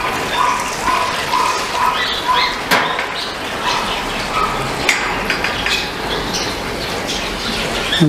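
Pet birds chirping repeatedly in short notes, a few a second, pausing and starting again about halfway through. Two sharp clicks come in the middle, over steady background noise.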